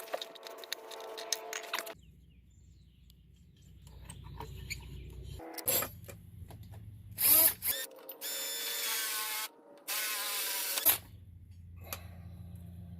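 A power tool running in several short bursts that start and stop abruptly, with clicks and a low hum in between, during metal work on a tractor's clutch linkage.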